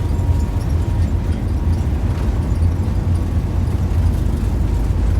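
Jet airliner cabin noise during takeoff: a steady low rumble of the engines and airframe heard from inside the cabin.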